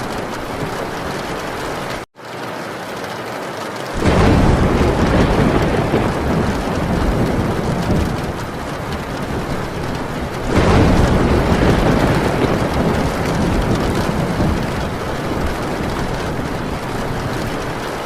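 Heavy rain pattering steadily on a metal tin roof, with two long rolls of thunder: one swelling suddenly about four seconds in, the other about ten and a half seconds in, each fading out slowly. The sound drops out for an instant about two seconds in.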